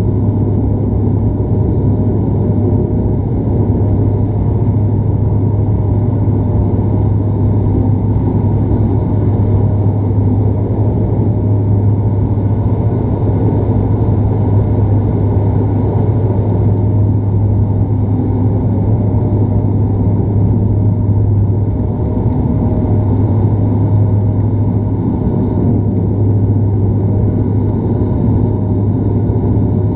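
Cabin noise inside a Bombardier Dash 8 Q400 turboprop: a steady, loud drone of the six-bladed propellers with a low hum, over a dense engine and airflow rumble, unchanging throughout.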